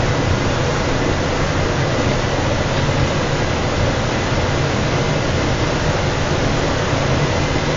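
Steady rumble and hiss of the Princeton Dinky, an electric commuter train, running along snow-covered track, heard from the front of the train. The noise holds even throughout, with a faint steady whine above it.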